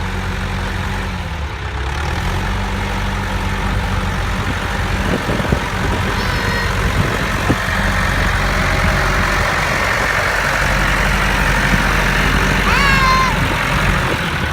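Vintage tractor engine running steadily at a low, even beat, with a wider rush of engine noise building in the second half.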